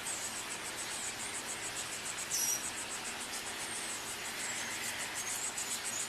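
Insects, crickets or similar, chirping in a steady rapid pulse over a hiss of background noise, with one brief louder chirp about two and a half seconds in.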